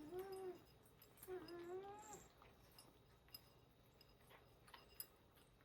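A hungry cat meowing twice: a short meow at the start and a longer, drawn-out meow about a second later, followed by a few faint clicks.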